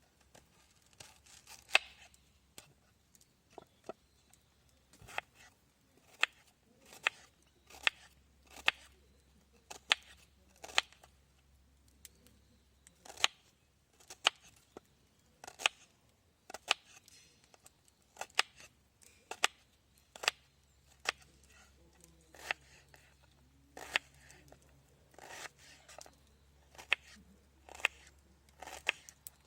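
Knife making repeated short, sharp cuts, a little under one stroke a second, with uneven spacing.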